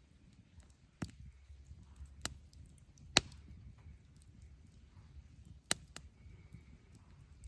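Four sharp chopping strikes at uneven intervals, the loudest about three seconds in.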